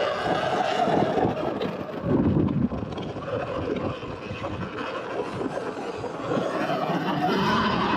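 Surron electric dirt bike riding through soft beach sand: the motor's whine wavers up and down over the hiss of the tyres and wind buffeting the microphone.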